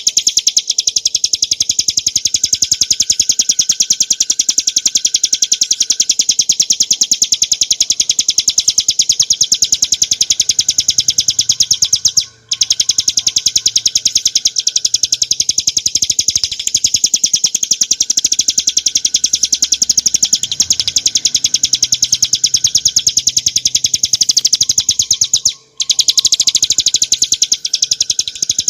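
Bar-winged prinia (ciblek gunung) singing a fast, unbroken run of high, repeated notes. It breaks off twice for a moment, about twelve seconds in and a few seconds before the end.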